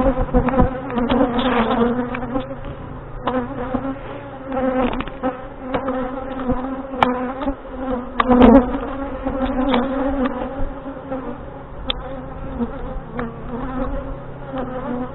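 Honey bees buzzing in a steady hum around an opened hive during a frame inspection; the colony is agitated. Scattered clicks and knocks sound over the hum, the loudest about eight and a half seconds in.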